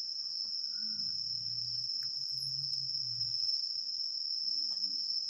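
Insects trilling in a steady, unbroken, high-pitched drone. A faint low hum sits beneath it for a couple of seconds in the middle.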